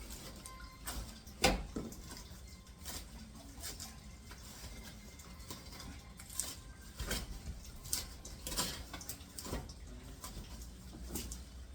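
Irregular light clicks and rustles from household objects being handled, with one sharper knock about a second and a half in.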